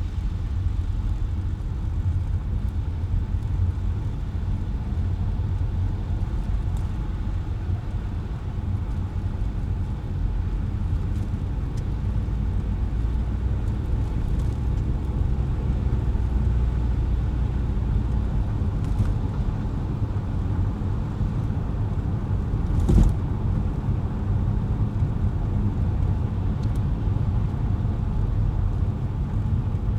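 Car driving along city streets: a steady low rumble of tyres and engine. A single sharp thump stands out about two-thirds of the way through.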